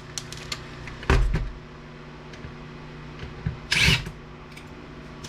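Parts of a DVD player being handled during teardown: light clicks and taps, a thump about a second in, and a short harsh rasp near the end, over a steady low hum.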